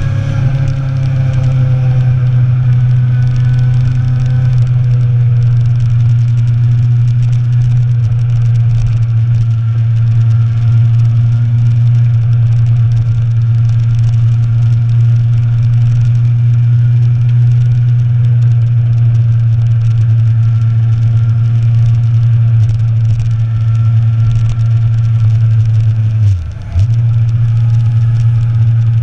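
Sport motorcycle engine running steadily under way, with the revs easing down over the first few seconds. About three quarters of the way through the sound briefly drops out and comes back, like a quick gear change.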